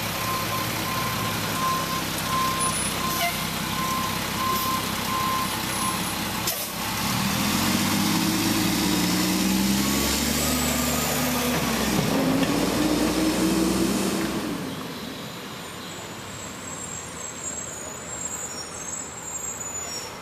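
Garbage truck backing up with its reversing beeper sounding at an even pace for about six seconds. The beeping stops, and the diesel engine then revs up, rising and falling in pitch for several seconds before settling back to a quieter idle.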